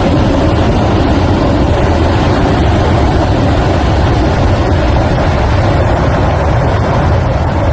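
Debris flow of water, mud and boulders rushing downhill, a loud, steady, low rumbling rush.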